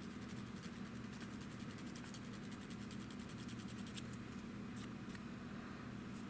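Quick, light sanding strokes on a small soft plastic model-kit part, taking down sprue gate marks, with a thinner patch about four seconds in. A low steady hum runs underneath.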